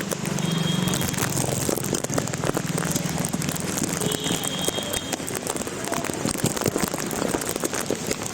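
Heavy rain falling, a dense steady patter of drops, with a low hum in the first few seconds, likely passing road traffic.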